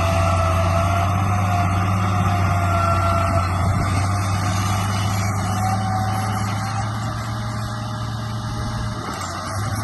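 Radio-controlled bulldozer running, a steady low engine-like drone with a thin motor whine that wavers slightly in pitch, easing off a little near the end.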